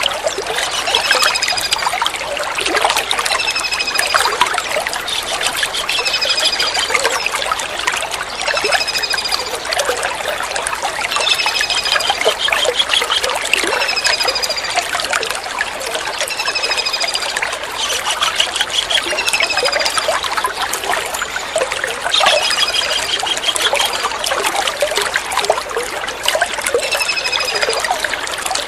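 Kingfisher calls: short, high, falling notes repeated about every two seconds, some followed by a rapid trill. Behind them is a steady sound of trickling water.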